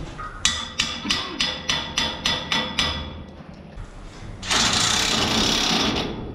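About eight hammer blows on metal, roughly three a second, each ringing briefly. About a second and a half after the blows stop, a loud steady hissing noise runs for about a second and a half.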